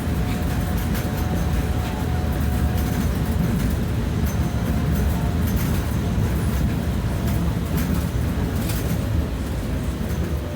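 Inside a BKM 60102 tram running along the track: a steady low rumble of wheels on rails with scattered clicks and a faint steady whine. It gets slightly quieter near the end.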